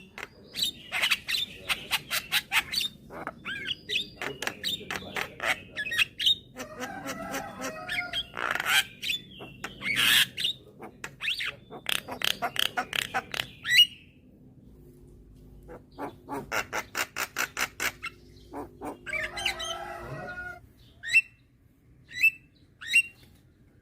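Javan myna (jalak kebo) calling: long runs of sharp clicks and harsh squawking notes, a short pause about two-thirds of the way through, then single short chirps spaced out near the end.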